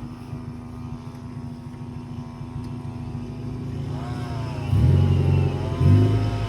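Hyundai Excel's four-cylinder engine running at idle, then revving up about four seconds in and getting louder as the car pulls away.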